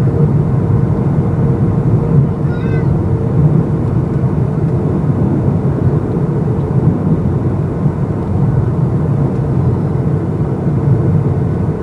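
Steady cabin noise of a Boeing 737-800 on descent: the low rush of airflow and the hum of its CFM56 engines, with a steady low tone running through it.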